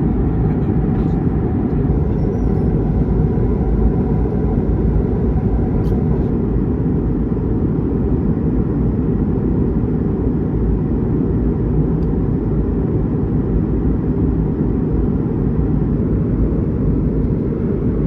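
Steady low rumble of an Airbus A220-300 in flight heard from inside the cabin: engine and airflow noise, even and unchanging throughout.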